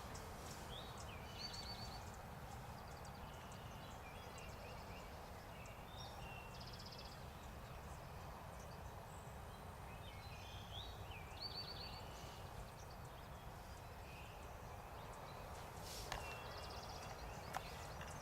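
Birds calling: scattered short chirps and several brief, rapid trills, over a steady low rumble of outdoor noise. A few soft clicks come near the end.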